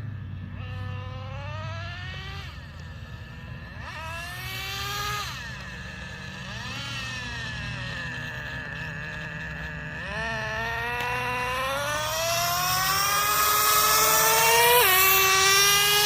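Traxxas Revo 3.3's two-stroke nitro engine revving repeatedly under throttle, its pitch climbing and falling back several times. Near the end, at full throttle and loudest, the pitch drops suddenly as the two-speed transmission shifts up, then climbs again before the throttle is let off.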